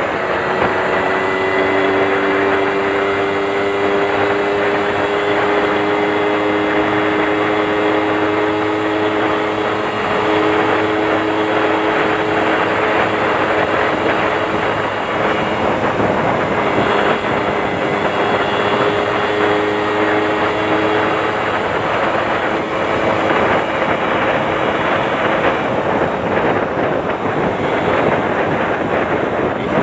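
Yamaha Champ two-stroke motorcycle engine running steadily, heard through its exhaust, its pitch holding nearly level with only small changes.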